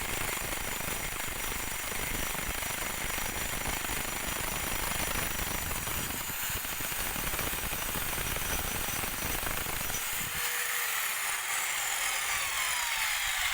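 Power tool working on metal with a dense, rough noise and a steady high whine. About ten seconds in it is let off, and its motor winds down in falling pitch.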